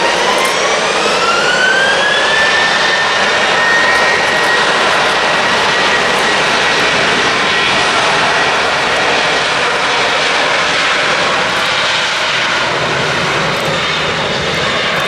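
Jet airliner engines running loud and close: a dense rushing roar with a whine that rises over the first two seconds or so, then holds a steady pitch.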